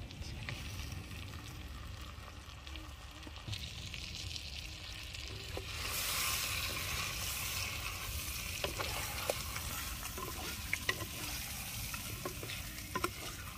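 Chicken pieces sizzling in hot oil in a pan, the sizzle swelling sharply about six seconds in as the chicken goes in. From there on a utensil clicks and scrapes against the pan as the chicken is stirred.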